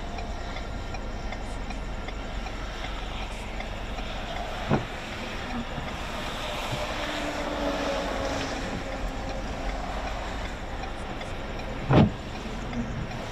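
Steady rumbling road and engine noise heard inside a vehicle, broken by two sharp thumps: a light one about a third of the way in and a louder one near the end.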